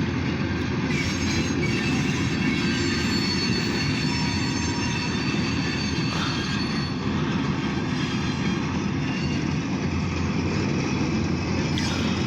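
Freight cars of a short train rolling past: a steady rumble of steel wheels on rail, with a faint, thin, high squeal of wheels running over it.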